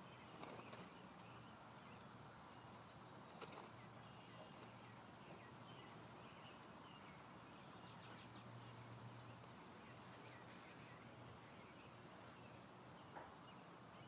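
Near silence: faint outdoor background with scattered soft bird chirps and a few quiet clicks or rustles.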